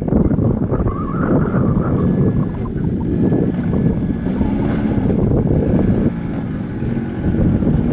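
Quad bike engine running while riding, with heavy wind buffeting on the microphone.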